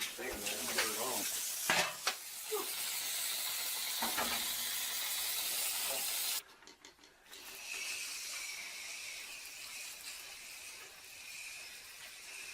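Aerosol coil cleaner spraying onto an HVAC coil: a steady hiss that cuts off sharply about six seconds in, then, after a short pause, a second quieter hiss with a faint whistling edge that slowly fades.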